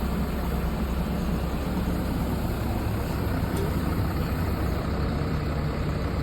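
Heavy engine of the machinery working in the mud running steadily at low revs, an even low hum.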